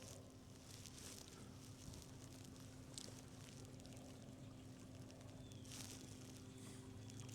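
Near silence: a faint steady low hum over light hiss, with a faint tick about three seconds in.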